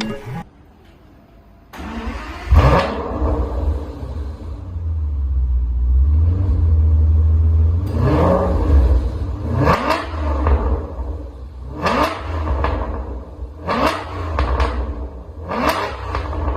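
Aston Martin engine with an aftermarket valved exhaust starting up and settling into a rumbling idle, then revved five times, about once every two seconds.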